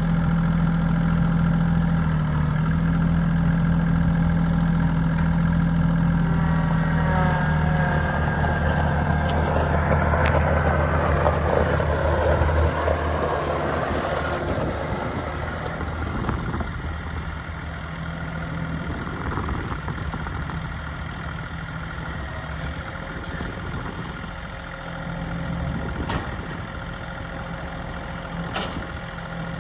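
Bobcat CT1021 sub-compact tractor's three-cylinder diesel engine running steadily. About a dozen seconds in the sound turns noisier, then runs on quieter for the rest.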